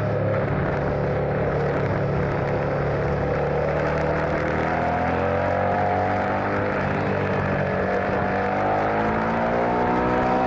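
Motorcycle engine running under way, its pitch rising steadily through the second half as the bike accelerates.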